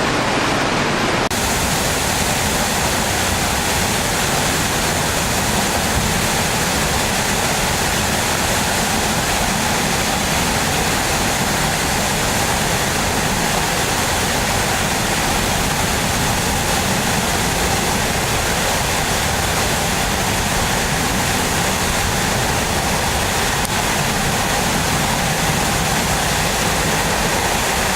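Automatic truck wash spraying water: a steady rush of water jets that brightens with more hiss about a second in and then holds even.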